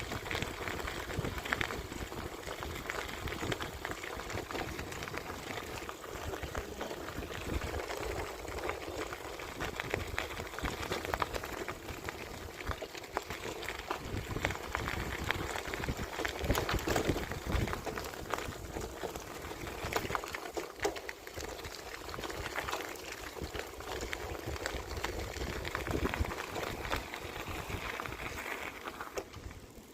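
Bicycle rolling along a path: a continuous rushing noise of tyres and air, full of small rattles and clicks. It drops away briefly near the end.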